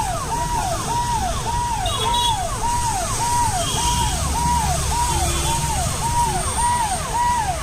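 Electronic vehicle siren repeating a held tone that drops in pitch, about twice a second, over a steady low rumble.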